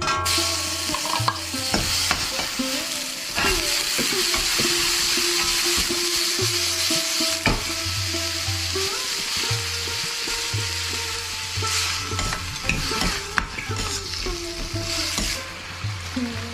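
Chicken stir-frying in a hot pan: a steady sizzling hiss with the stirring and scraping of the spatula.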